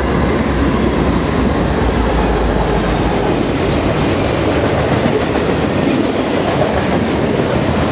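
Passing Norfolk Southern freight train: the low rumble of its diesel locomotives eases over the first few seconds as they pull away, and a string of freight boxcars rolls by with steady steel-wheel-on-rail noise.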